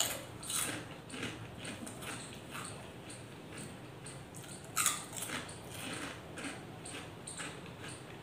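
Close-up chewing of crunchy snack chips, with a quick series of crisp crunches and the loudest bite about five seconds in.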